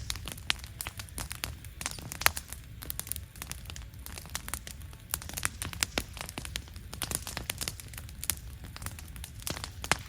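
Wood campfire crackling, with many irregular sharp pops over a low steady rumble.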